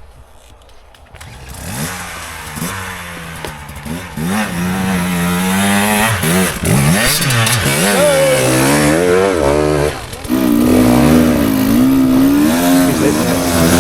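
Dirt bike engine revving hard, its pitch rising and falling again and again, with a brief drop about ten seconds in before it revs up again.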